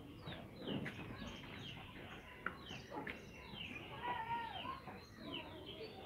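Small birds chirping: a steady run of short, quick, falling chirps, with one longer arching call about four seconds in.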